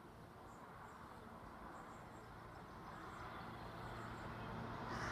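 Hull Trains diesel multiple unit approaching at speed, heard faintly at first and growing steadily louder: a rising rush of wheels on rail over a steady low engine hum.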